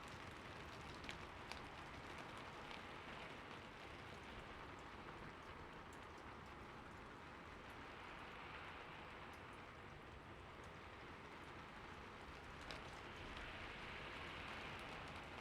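Steady heavy rain falling, with a few sharper individual drops ticking close by.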